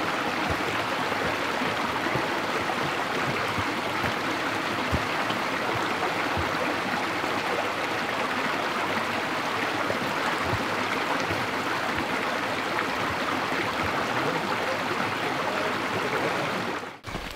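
Stream of water running steadily, a continuous rushing with a few faint clicks in it; it cuts off abruptly near the end.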